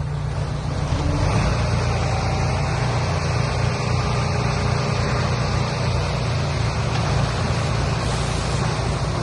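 Heavy diesel machinery running steadily: a deep engine drone with a constant rushing noise over it, getting a little louder about a second in.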